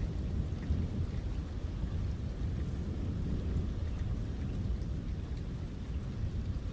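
Thunderstorm: rain falling with scattered drop ticks over a low, continuous rumble of thunder.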